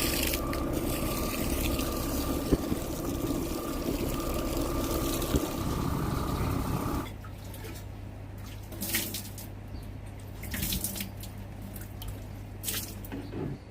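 A boat's motor runs steadily with water rushing alongside. About seven seconds in it cuts off suddenly to a quieter low hum, with scattered drips and splashes of water.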